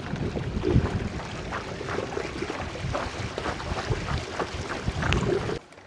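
Wind buffeting the microphone, with small waves lapping and slapping against a canoe hull in irregular knocks. It cuts off suddenly near the end.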